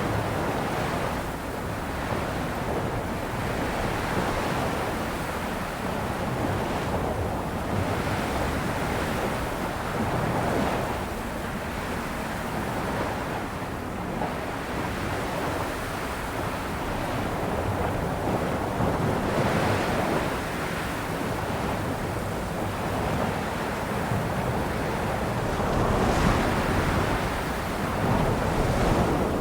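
Sea waves washing onto a shore, a continuous surf that swells and eases every few seconds.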